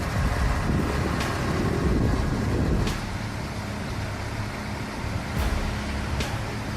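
Heavy vehicle engine running with a low rumble and a few sharp clicks; about three seconds in it drops quieter and a steady hum comes in.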